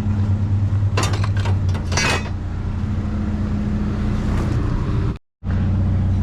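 Steady low hum of an idling vehicle engine, with a few metallic clinks of cans and scrap being handled about one and two seconds in. The sound cuts out briefly near the end.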